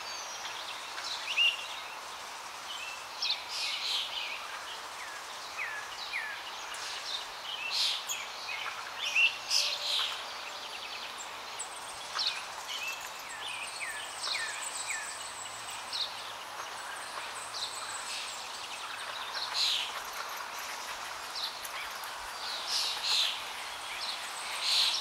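Small birds chirping and calling in many short, quick notes, some sliding down in pitch, over a steady background hiss.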